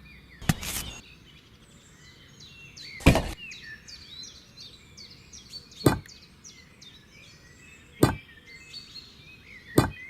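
Small birds chirping continuously, with a sharp knock or tap every two to three seconds.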